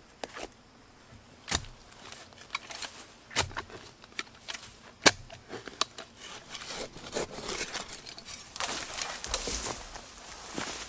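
Irregular sharp knocks and snaps, the loudest about halfway through, followed by a stretch of rustling near the end.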